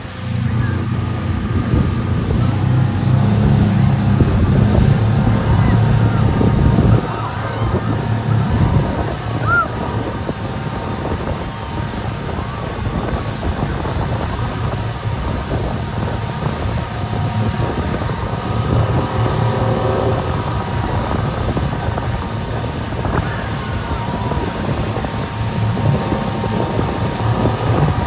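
Motorboat engine running, with wind buffeting the microphone and the rush of sea water. The engine is loudest for the first seven seconds, then drops back.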